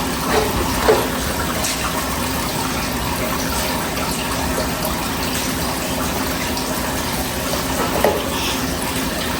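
Water running steadily through a Hotsy hot-water pressure washer, a constant rush with a low steady hum underneath, while its burner is being tried.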